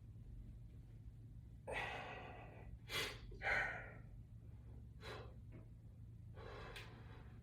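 A person breathing out hard in several short puffs, about five in all, while straining through an exercise with a resistance band.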